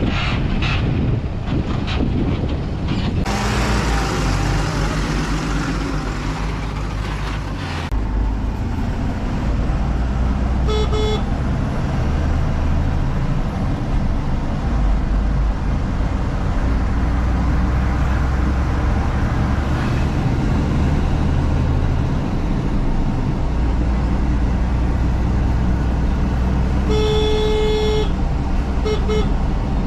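Diesel engine of a JCB 3DX backhoe loader running under load, its pitch rising and falling as it works, with a few seconds of rushing noise near the start. A vehicle horn sounds briefly about eleven seconds in, then for about a second near the end, followed by a short toot.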